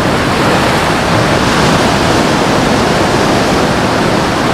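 Steady rushing noise of sea surf at the shore, with no distinct breaks.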